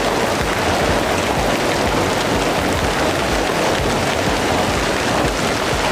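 Heavy wind-driven rain, a steady unbroken hiss heard from inside a car.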